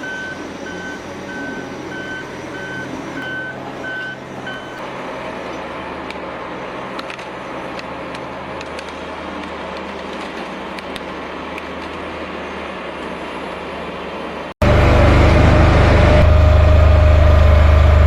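Heavy forestry machine running, with a reversing alarm beeping at an even pace for the first few seconds. About fourteen seconds in, the sound cuts abruptly to a much louder machine with a strong, steady hum.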